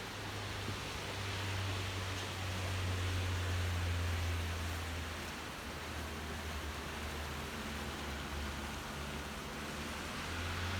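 Steady rain falling, an even hiss with a low rumble underneath that swells and eases.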